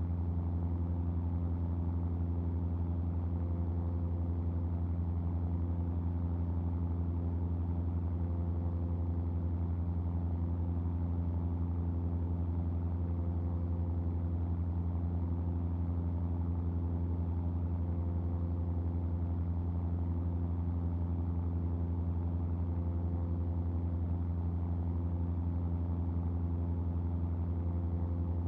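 Cessna R182 RG's six-cylinder Lycoming piston engine and propeller droning steadily in flight, a deep, even hum that holds the same pitch throughout.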